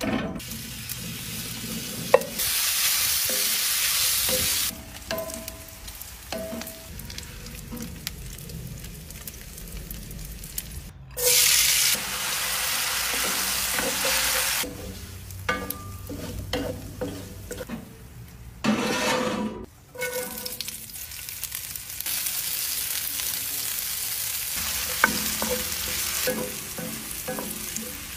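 Bacon and onions sizzling in a hot cast-iron skillet, with a wooden spoon scraping and knocking against the pan as they are stirred. The loud sizzle comes in several stretches that cut in and out abruptly.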